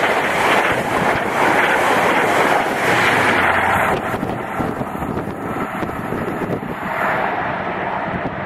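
InterCity 125 high-speed train passing at speed: a loud rush of coaches and wheels on the rails that drops away sharply about four seconds in as the tail of the train clears. Wind noise on the microphone remains after it.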